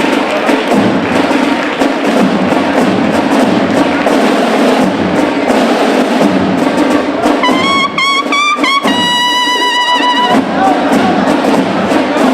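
Processional brass band playing a Holy Week march. A single high, pitched line stands out above the band about seven seconds in, wavering and then held for about three seconds.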